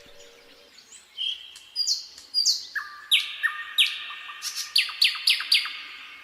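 Nightingale singing: a phrase of sharp downward-swept notes, each trailing off in a long echo, speeding into a run of quick repeated notes that stops near the end. A faint low hooting call fades out in the first second.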